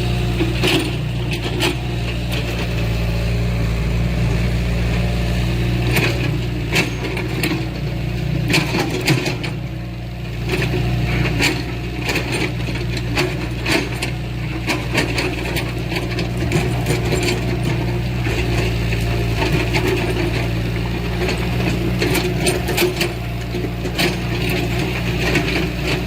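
Heavy tracked earthmoving machinery: a diesel engine drones steadily under frequent irregular clanks and knocks of metal and stone.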